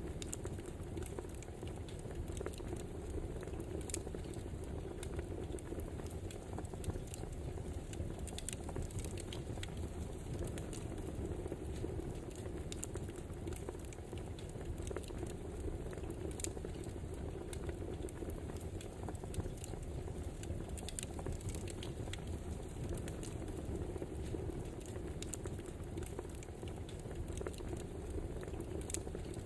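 Wood fire burning: a steady low rustle with scattered sharp crackles and pops.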